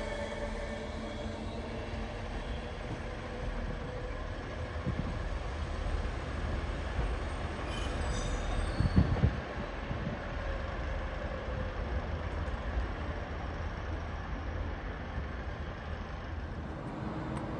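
Train rumbling through a railway station in a steady low rumble, with a few short heavy thumps about nine seconds in.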